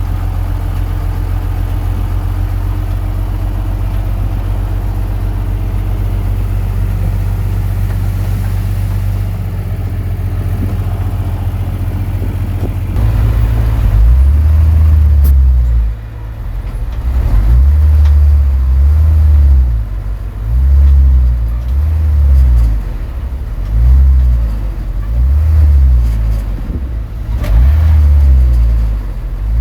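Komatsu D21P crawler bulldozer's diesel engine running steadily. About halfway through it gets louder and its pitch rises and falls every second or two as it works under load.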